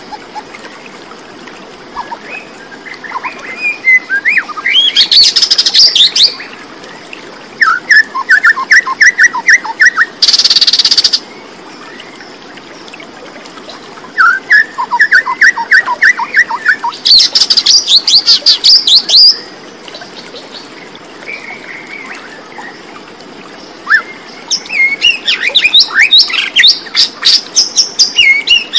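Birdsong: repeated phrases of rapid chirps and trills, coming in groups a few seconds apart, with a short harsh buzzy burst about ten seconds in, over a steady background hiss.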